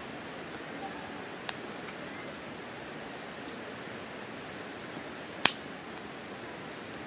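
Wood campfire burning in a fire pit: a steady soft hiss with a few sharp crackles as the firewood pops, one much louder pop about five and a half seconds in.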